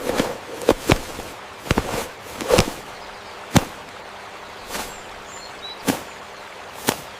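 Wood fire crackling: about ten irregular sharp pops and cracks over a steady hiss.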